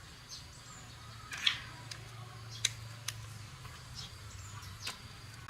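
A few short, sharp clicks and taps spaced unevenly, the loudest about a second and a half in, over a faint steady low hum.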